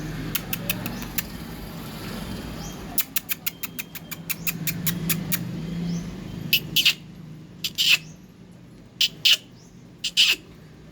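A pet parrot making a run of sharp clicks, then several short, harsh screeches spaced a second or so apart, over a low steady hum that fades about six seconds in.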